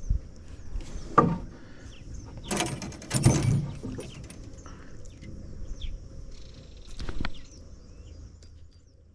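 Knocks and bumps against a fiberglass canoe hull while a just-caught bluegill and tackle are handled: one about a second in, a louder cluster around three seconds, and another past the seven-second mark.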